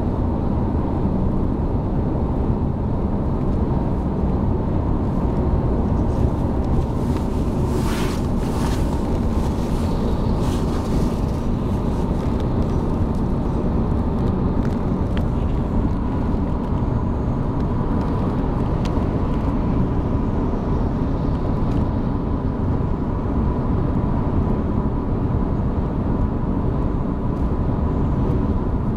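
Steady road and engine rumble inside a moving car's cabin, with a few faint clicks about eight to eleven seconds in.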